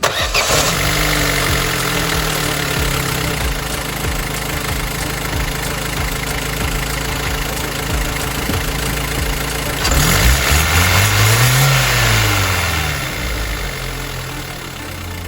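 Opel Corsa petrol engine idling. About two-thirds of the way through it is revved once, rising and falling back to idle.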